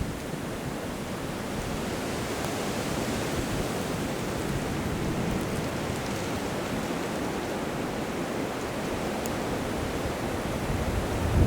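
Blizzard wind blowing steadily: an even hiss with no distinct events, rising into low rumbling gusts on the microphone near the end.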